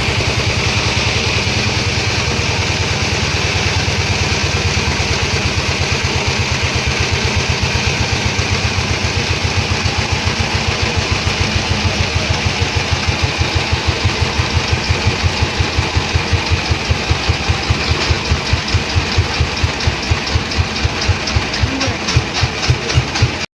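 An engine running with a steady pulse that gradually slows, its firing beats growing slower and more distinct towards the end, until the sound cuts off suddenly.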